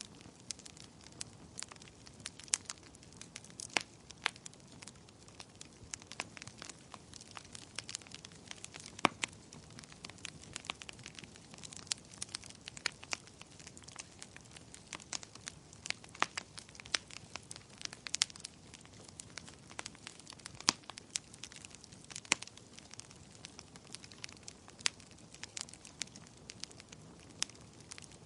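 Wood fire crackling in a fireplace: a soft steady hiss under frequent, irregular sharp pops and snaps.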